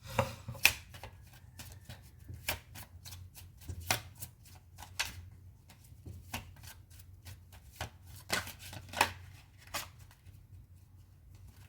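A deck of Lenormand fortune-telling cards shuffled by hand: a run of irregular, crisp card flicks and slaps, over a faint low steady hum.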